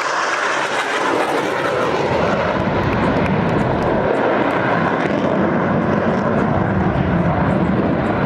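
Blue Angels jet aircraft passing overhead: loud, steady jet-engine noise that deepens and fills out about a second in, then holds.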